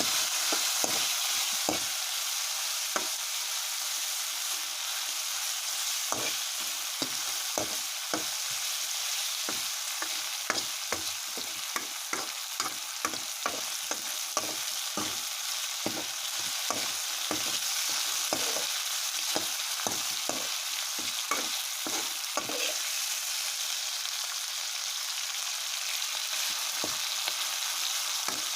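Kalij pheasant meat sizzling as it is stir-fried in a pan, with frequent clicks and scrapes of a utensil against the pan; the clicks come thickest through the middle and thin out near the end.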